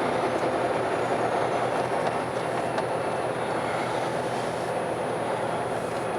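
Car driving steadily, with steady tyre and engine rumble heard from inside the cabin.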